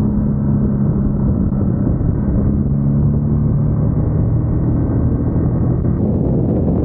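Motorcycle engine running steadily while riding along, under a heavy low wind rumble. The engine note shifts a little about two seconds in.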